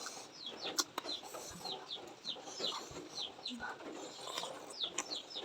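Small birds chirping: short, high notes that slide downward, repeated a few times a second, with a few faint clicks among them.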